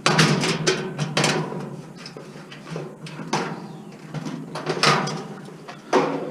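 Knocks and clatter of metal appliance parts being handled while the wiring is stripped out, with about six sharp knocks spaced a second or two apart.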